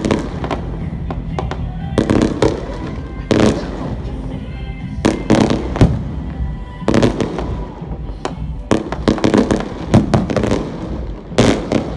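Fireworks show: clusters of aerial shells bursting and crackling every second or two, over music playing underneath.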